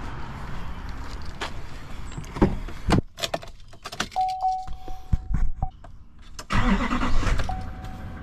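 Keys jangling and handling clicks in and around a car, with a car's electronic warning chime: one long steady beep in the middle, then chiming again near the end.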